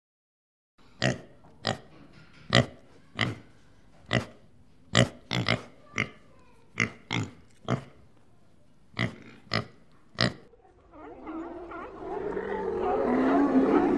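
A warthog grunting: about fifteen short, sharp grunts at an uneven pace. Near the end, sea lions start calling, many wavering cries overlapping and louder than the grunts.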